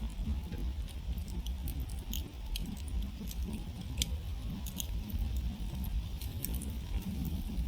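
Wood campfire burning down to glowing embers, crackling with many small, irregular sharp pops over a low steady rumble.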